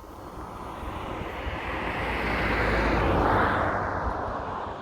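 A car driving past: its noise swells to a peak about three seconds in, with a low tyre and engine rumble, then drops in pitch and fades as it goes away.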